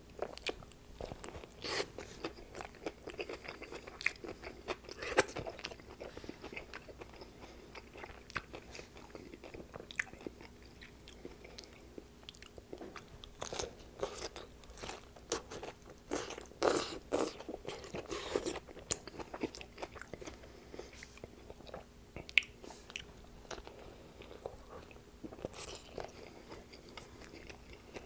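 Close-miked biting and chewing of a sub sandwich with lettuce: crunches and crackly mouth clicks, busiest and loudest about halfway through.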